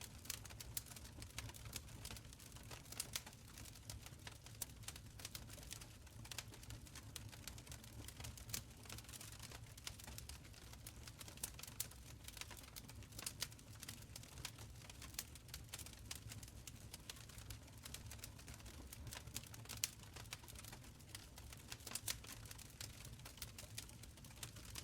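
Wood fire crackling in a stone fireplace: quiet, irregular sharp pops and snaps over a soft, steady low rumble of the flames.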